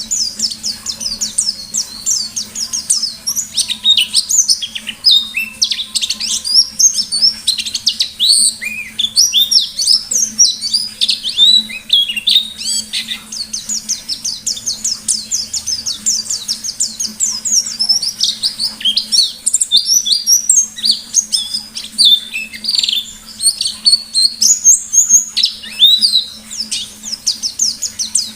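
Pleci (white-eye, Zosterops) singing a long, fast, unbroken song of high chirps, swoops and trills, with a faint steady low hum underneath.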